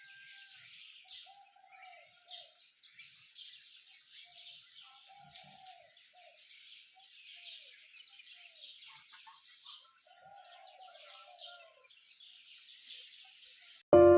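A chorus of many small birds chirping, a dense stream of quick high chirps with some lower, arched calls mixed in. Music comes in abruptly near the end.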